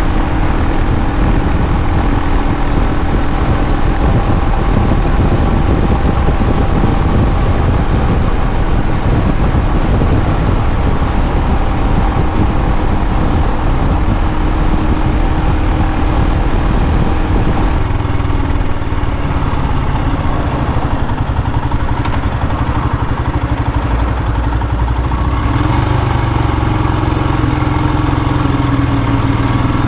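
Royal Enfield Himalayan's 411 cc single-cylinder engine running under way, with wind rush on the microphone. About eighteen seconds in the engine note drops and the wind hiss fades, then the note rises a little near the end.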